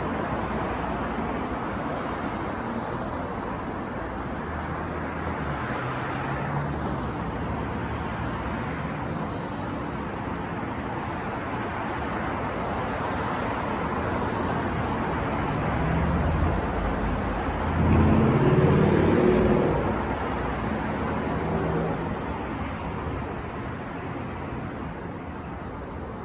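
City street traffic: a steady wash of passing cars. One vehicle's engine passes close and is loudest about two-thirds of the way through, then fades.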